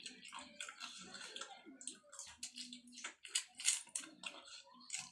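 Close-miked eating sounds: a person chewing rice and curry with wet mouth clicks and lip smacks coming in quick succession, a few louder smacks a little past the middle.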